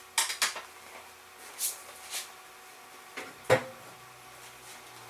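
Handling knocks and clicks: a quick cluster of clicks just after the start, a couple of soft scrapes, and one sharper knock about three and a half seconds in.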